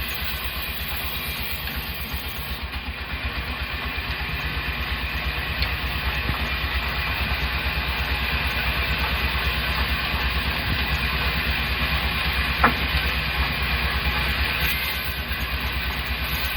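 Sawmill machinery running: an engine's steady, rapid throb under a hissing noise, with one sharp click about three quarters of the way through.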